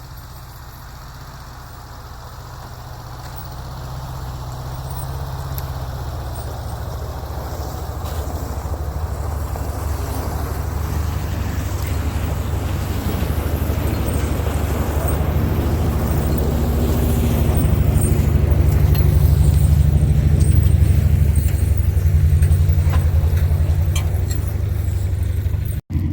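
1967 International 1200 truck's engine running, growing steadily louder, with a very short break near the end.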